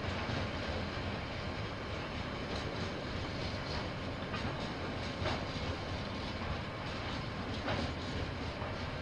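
KiwiRail train rolling past, heard through a security camera's microphone: a steady rumble with a short clack from the wheels every two seconds or so.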